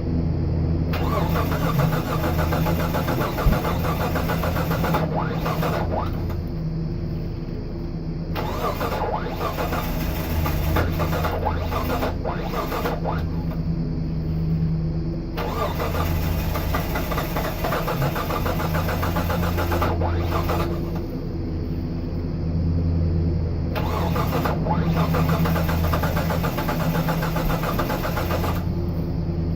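The starter of a 2002 Mitsubishi Montero cranks its rebuilt engine four times, each try lasting about five to seven seconds with short pauses between, and the engine never catches: a crank-no-start.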